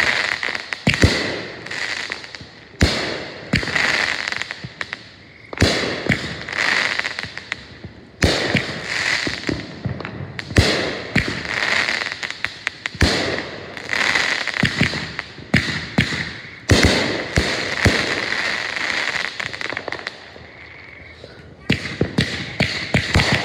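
Aerial fireworks bursting overhead: a rapid run of sharp bangs, about one every second or so, with crackling from the bursting stars between them. The bangs stop for about two seconds near the end, then start again.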